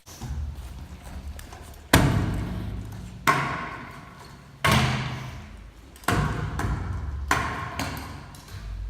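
Freestyle scooter landing hard on pavement about six times, each thud followed by the wheels rolling and fading out.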